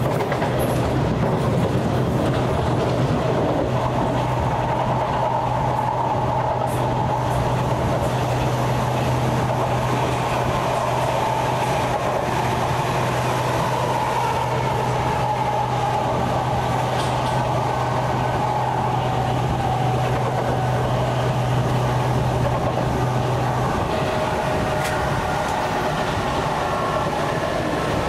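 Interior ride noise of a South Western Railway Class 455 electric multiple unit running at speed: steady rumble of wheels on rail and carriage noise. A steady low hum underneath stops about three-quarters of the way through.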